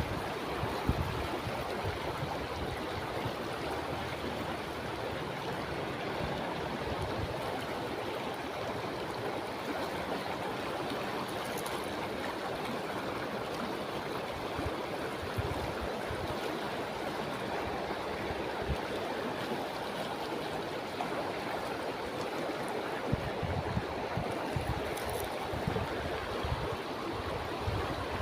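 Steady rush of flowing water, with scattered low thumps near the end.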